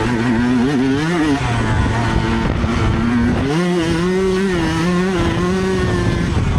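Yamaha YZ125 single-cylinder two-stroke dirt bike engine revving under way. The pitch climbs over the first second or so, falls back, then rises again about halfway through and holds high.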